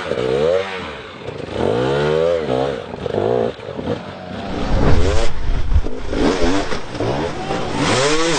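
Motocross motorcycle engines revving up and down again and again, the pitch climbing and dropping every second or so, with a louder low rumble about five seconds in.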